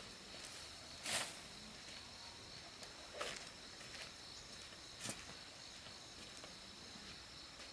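Faint, steady insect trilling, with three short knocks about two seconds apart.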